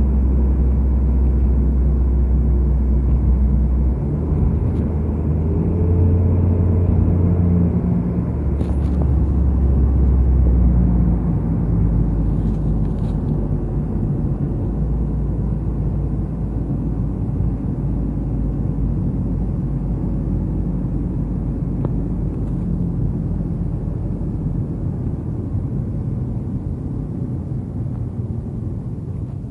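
Car being driven, heard from inside: a low engine drone and road rumble. The engine note shifts up and down over the first ten seconds or so, then settles into a steadier rumble.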